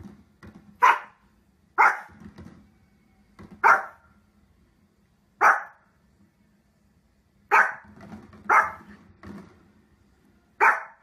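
A small fluffy dog barking: seven sharp barks spaced one to two seconds apart, with faint knocks between them.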